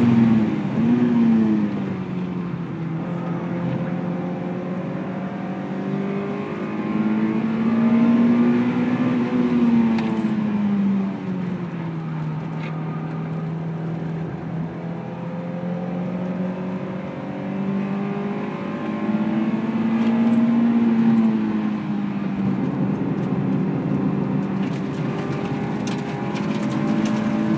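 Honda S2000's four-cylinder engine heard from inside the cabin, driven hard on track, its pitch rising and falling several times as the car accelerates and lifts off through the corners.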